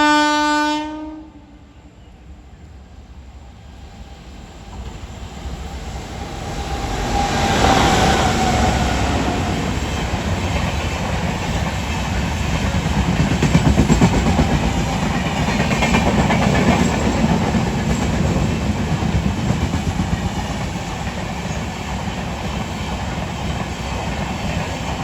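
A locomotive horn blows once, briefly, at the start. Then the Veraval–Thiruvananthapuram Superfast Express approaches and passes through the station, building to a loud, steady rumble with its wheels clattering over the rail joints.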